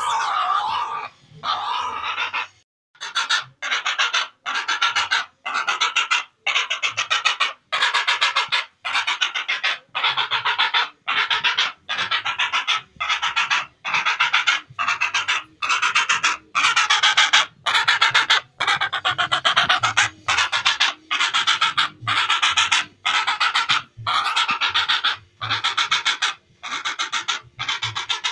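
Heron calls: harsh, rapidly pulsed, rattling calls repeated about once a second with short gaps between them.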